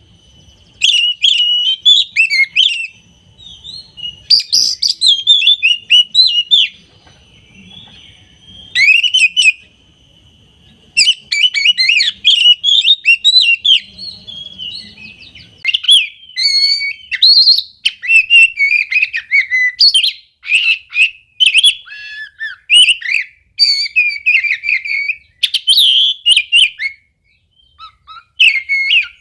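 Oriental magpie-robin (kacer) in full song: loud, fast, varied phrases of whistles and chirps in bursts, broken by short pauses.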